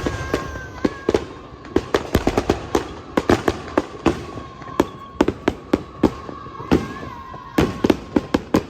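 Fireworks going off: a dense, irregular run of sharp bangs and crackles, with a faint steady whistle underneath.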